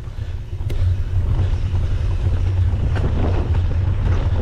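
Wind buffeting the microphone of a camera carried on a mountain bike being ridden along a trail: a steady low rumble, with the bike's rattle and a few sharp knocks from the rough ground.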